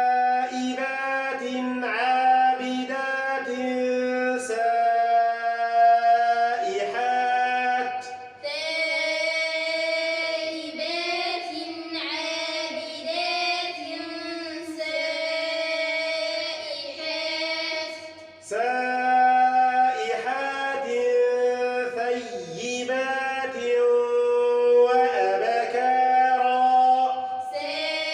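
Melodic Quran recitation in tajweed style, with a man's voice chanting a verse and a chorus of children repeating it after him. The exchange happens twice: the man for the first eight seconds, the children until about eighteen seconds in, then the man again, with the children coming back in near the end.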